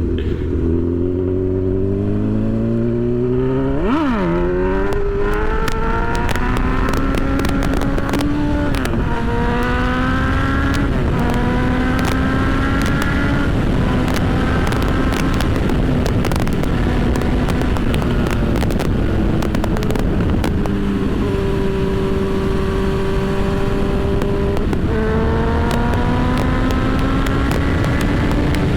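Honda CB1000 inline-four motorcycle engine pulling hard through several upshifts, its pitch climbing and then dropping at each shift. It holds a steady cruise, eases off, and accelerates through the gears again near the end, under a steady rush and buffeting of wind on the microphone.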